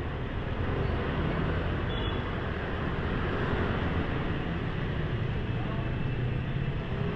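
Motor scooter on the move in traffic: a steady engine and road rumble with an even rush of wind and road noise.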